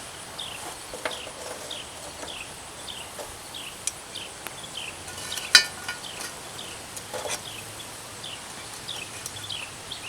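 Charcoal briquettes being set with metal tongs around and on a cast iron Dutch oven: scattered knocks and clinks, the loudest a sharp ringing metal clink about halfway through. Behind it, a short falling chirp repeats about twice a second.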